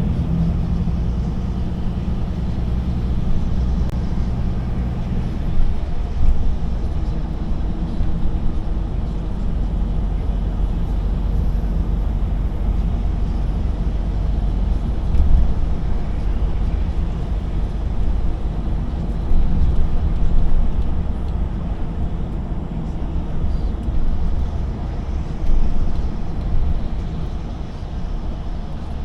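Truck on the road: a steady diesel engine drone with low tyre and road rumble. The engine's tone is clearest for the first few seconds, then blends into the rumble.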